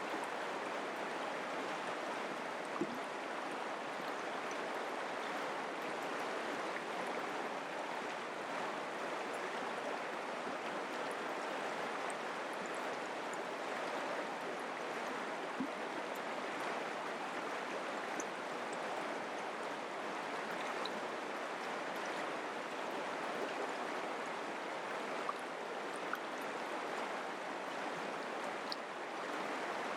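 Mountain creek water flowing steadily, with a few faint brief splashes or drips over the even rush.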